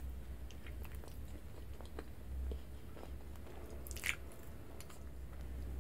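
Close-miked biting and chewing of a soft, chewy mochi rice cake: small sticky mouth clicks and squishes, with one louder brief mouth sound about four seconds in, over a faint steady low hum.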